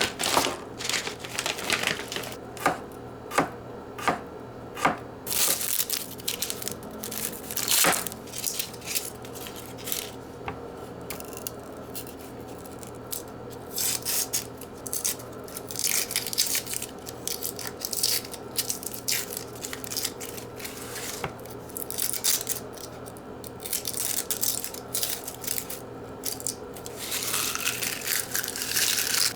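Hands-on kitchen work: irregular sharp clicks and taps, with spells of crinkling and scraping, over a faint steady hum.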